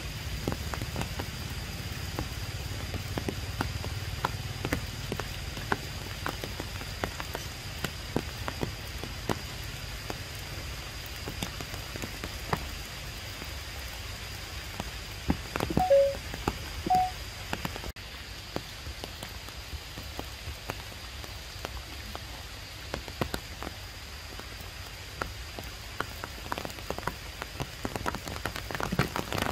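Rain falling on tree leaves: a steady hiss with many irregular drop taps. About halfway through come three short squeaks, the loudest sounds in the stretch.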